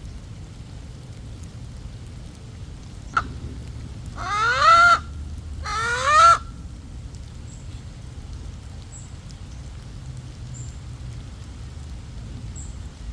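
A sharp click, then a bird gives two loud squawks about a second and a half apart, each rising in pitch, over a steady low rumble.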